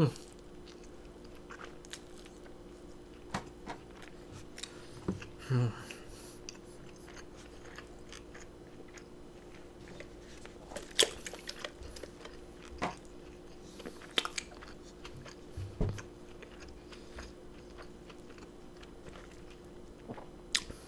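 Close-miked chewing and biting of a cheesy elk burger, with wet mouth smacks and clicks scattered through. A steady low hum sits underneath.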